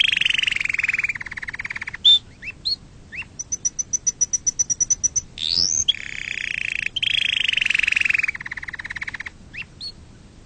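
Domestic canary singing: long, fast trills alternating with short rising whistles, and in the middle a quick run of high, clear notes at about ten a second.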